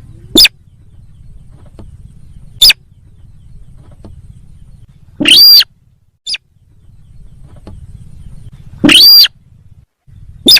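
Bird-lure recording of the sintar sawah call: six short, loud calls at irregular spacing, the third and fifth longer at about half a second, loud enough to overload the recording. A faint low hum runs between the calls.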